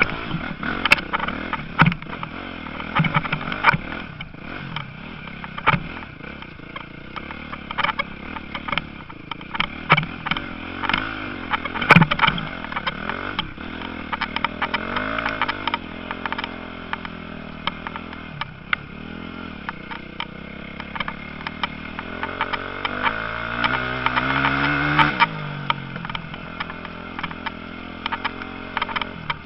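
Motocross motorcycles racing, their engines revving up and down. About three-quarters of the way through, one bike's pitch climbs and then falls away as it passes. Frequent sharp knocks are heard throughout.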